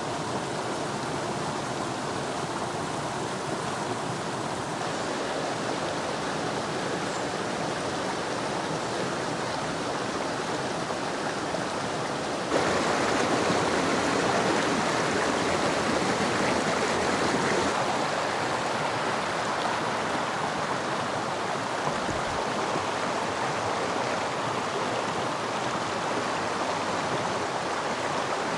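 Mountain stream water rushing steadily over rocks, a constant hiss of flowing water. It jumps suddenly louder about twelve seconds in and eases back a few seconds later.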